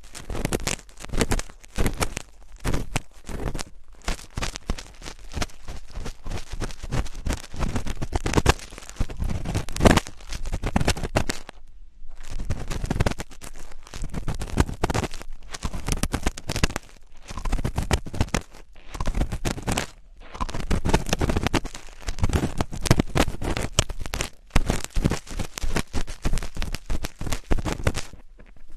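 Close-miked ASMR scratching: irregular crackly, scraping strokes on the microphone, with a few short pauses.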